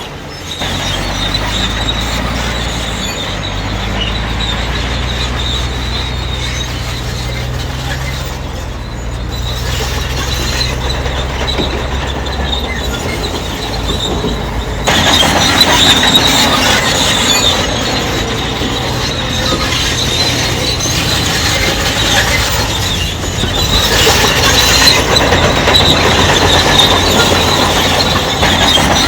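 Crawler bulldozer working: the diesel engine runs steadily, with the squeal and clatter of its steel tracks. About halfway through the track squeal gets louder.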